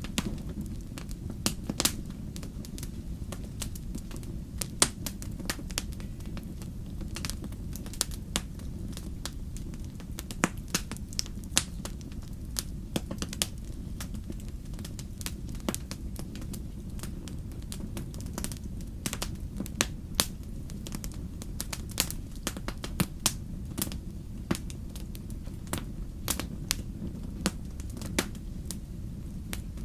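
Wood campfire burning: irregular sharp crackles and pops of the burning wood, sometimes several close together, over a steady low rumble.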